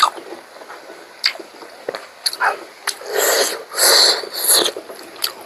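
Two loud, breathy bursts of air through the mouth and nose, about three and four seconds in, with a few short wet mouth clicks while eating.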